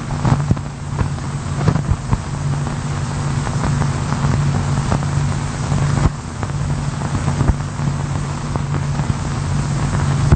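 Steady low hum and hiss with scattered clicks and crackles, the background noise of an old film soundtrack.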